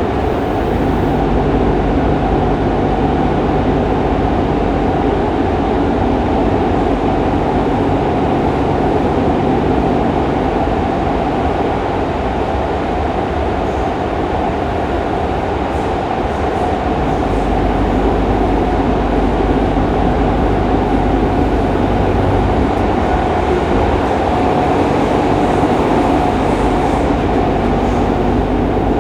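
Fukuoka City Subway 2000-series train running between stations, heard from inside the car: a steady rumble of wheels and running gear with faint steady tones over it.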